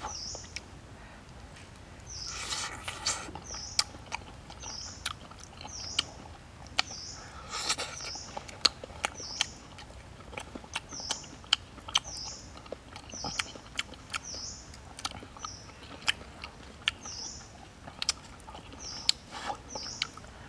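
Close-up eating sounds: sharp mouth clicks and chewing as grilled meatballs are bitten off a skewer. Behind them a bird repeats a short high call, often twice in quick succession, about every second or two.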